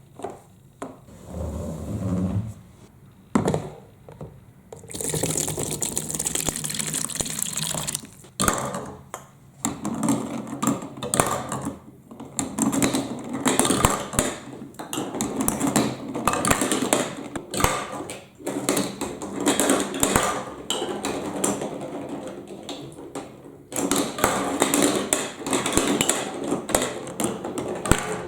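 Water running and splashing down a plastic block marble run, with glass marbles clicking and clacking along the channels. The water starts flowing steadily about five seconds in, and the clicks come thick and irregular.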